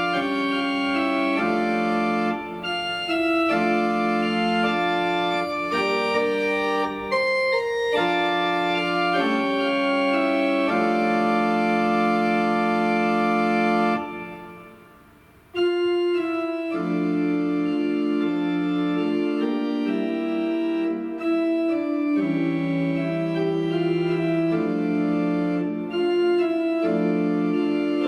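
Organ playing a slow Russian folk song harmonized in held chords. About fourteen seconds in, the sound dies away at the end of a phrase, and the next phrase begins about a second and a half later.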